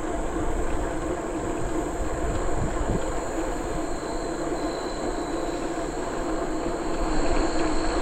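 Steady rolling noise of a bicycle riding along a trail: tyres on the surface and wind across the microphone, an even rumble with a faint hum.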